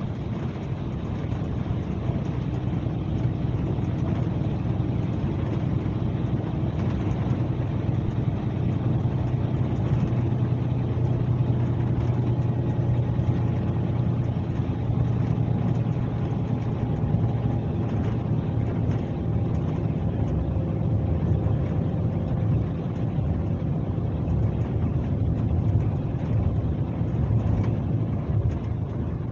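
Scania K370C coach's rear-mounted diesel engine running steadily under way, heard from inside the coach as an even drone over road noise.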